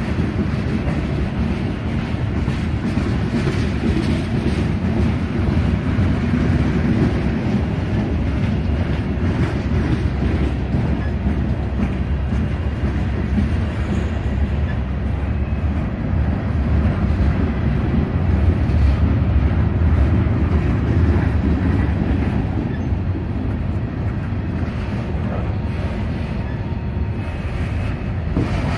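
Mixed freight train's cars rolling past, a steady low rumble of steel wheels on the rails.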